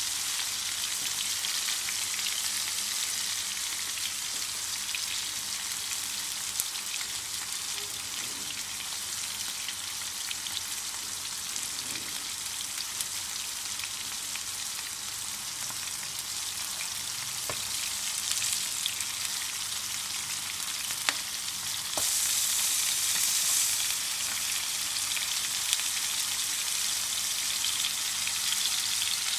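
Chapli kababs shallow-frying in hot oil in a wide shallow pan: a steady high sizzle with a few sharp pops, growing louder for a couple of seconds about three-quarters of the way through.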